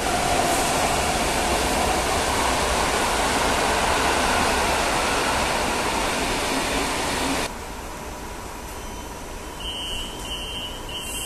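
Standing SKM EN57 electric train: a loud, steady rushing noise that cuts off suddenly about two-thirds of the way through. Near the end the high-pitched door warning beeps start, repeating about every 0.7 s, which signal that the doors are about to close.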